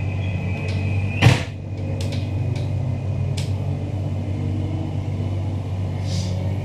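Steady hum inside a Queensland Rail NGR electric train carriage. A high steady tone cuts off about a second in, followed at once by a single loud thump, then a few light clicks and knocks.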